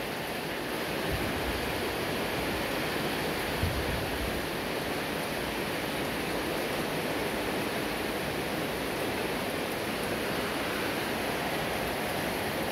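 Heavy rain pouring steadily onto a concrete yard, a constant hiss of falling water.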